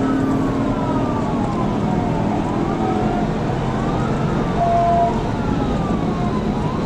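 Police car siren wailing, its pitch rising and falling every couple of seconds, over steady road and engine noise from the pursuing cruiser.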